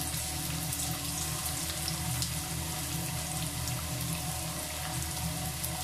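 Breadcrumb-coated beef pieces deep-frying in hot oil in a wok: a steady sizzle with fine crackling.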